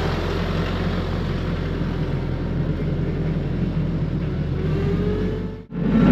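Tractor engine running steadily, with a low hum. It cuts out for an instant near the end and comes back louder.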